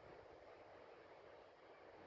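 Near silence: a faint, steady hiss of wind from a snowstorm.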